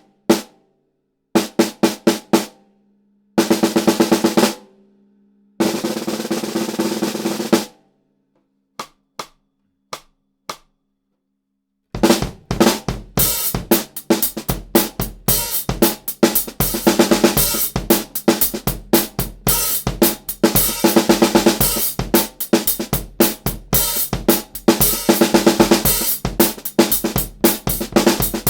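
Mapex Black Panther Birds Eye Maple 13" x 6" snare drum with a coated head played alone: single strokes and short flams, then two dense rolls a couple of seconds long, with gaps between. About twelve seconds in, a continuous drum-kit beat starts, the snare backed by bass drum.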